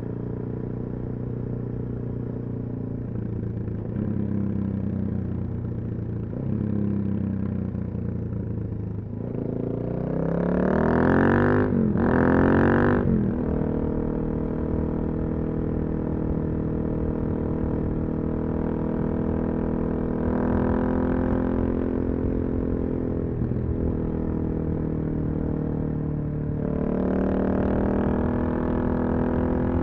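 Suzuki DR-Z400SM single-cylinder four-stroke motorcycle engine through a full Yoshimura exhaust, under way. It climbs in revs sharply twice about ten to thirteen seconds in, with the pitch dropping briefly between the climbs, then holds a steady pitch and rises again near the end.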